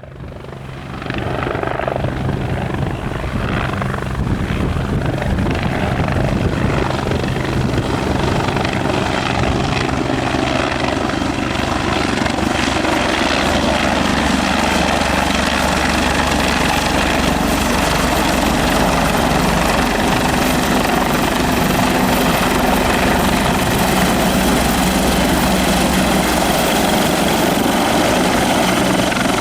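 Bell 430 twin-turbine helicopter running close by: steady rotor beat with a thin high turbine whine, fading in at the start and growing a little louder over the first dozen seconds before holding steady.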